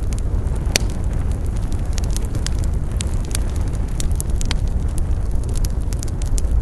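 Campfire burning with a steady low rumble and irregular sharp crackles and pops of burning wood, the loudest pop just under a second in.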